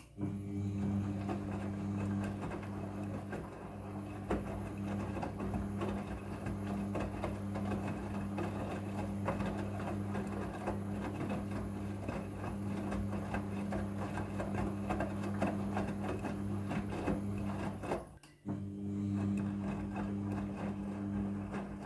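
Midea front-loading washing machine running: a steady motor hum under an irregular rattle from the turning drum and load. The sound drops out briefly about 18 seconds in and comes straight back.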